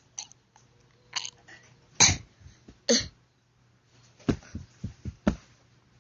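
A dog making short, sharp coughing or snorting noises, about seven separate bursts, the loudest about two seconds in and four quick ones close together near the end.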